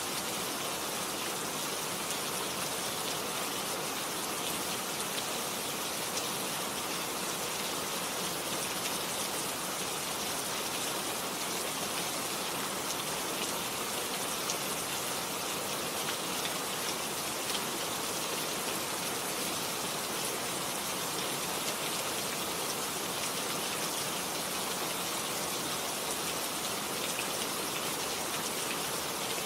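Steady rain falling on garden leaves: an even hiss made of countless small drops pattering, unchanging throughout.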